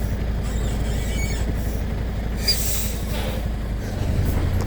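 A truck's diesel engine runs with a steady low rumble. A short hiss comes about halfway through.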